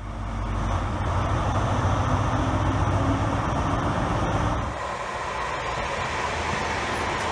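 InterCity 125 (Class 43) power car's diesel engine running at a platform: a steady low rumble with a hum. About five seconds in it cuts to the rail noise of an electric multiple unit passing through a station.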